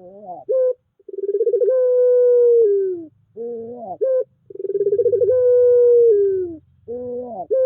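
A puter pelung (Barbary dove) cooing. Its long, drawn-out coo comes twice, each held steady for about two seconds and sliding down at the end, and each is led in by a short rising note.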